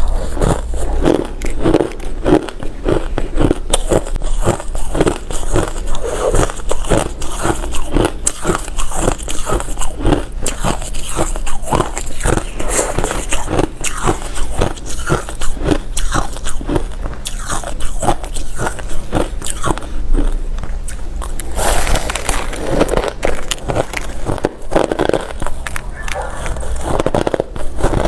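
Hard ice, refrozen crushed bits, being bitten and crunched between the teeth close to the microphone, with rapid repeated crunches about two to three a second. A denser burst of crunching comes about three quarters of the way through.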